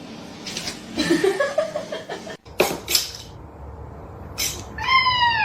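A few knocks and clinks, then near the end a cat meows once, its pitch falling.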